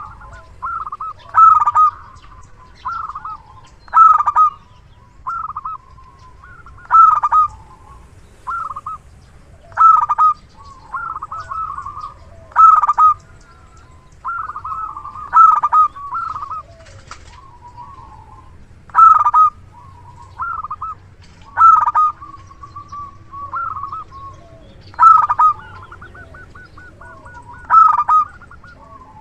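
Zebra dove (perkutut) cooing over and over: loud, clipped coos come every second or two in short phrases. Near the end there is a quick run of rapid notes.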